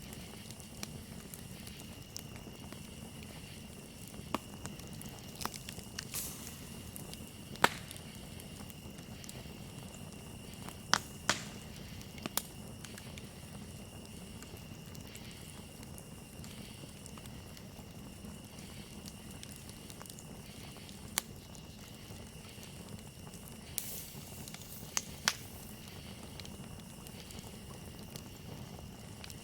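Campfire burning with irregular sharp pops and crackles, the loudest about a third of the way in and again a little later. Under it runs a steady, high chirring of crickets.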